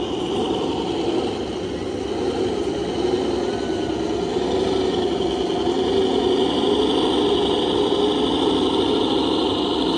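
Scale RC construction trucks running: a steady engine-like drone with a high whine above it that grows stronger about halfway through.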